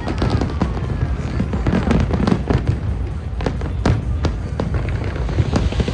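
Fireworks going off: a rapid, irregular run of sharp bangs and crackles over a continuous low rumble, thickest in the middle of the stretch.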